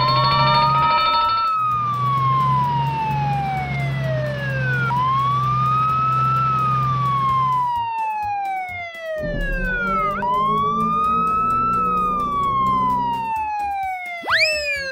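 Fire truck siren wailing. It slowly rises and falls in pitch about three times, each cycle about five seconds, then gives two quick, sharp whoops near the end, over a low steady hum.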